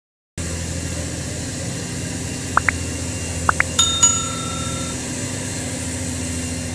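Steady roar of heavy rain and strong wind with a low hum underneath. A few short rising chirps come a little over two seconds in, and a brief bell-like ring about four seconds in.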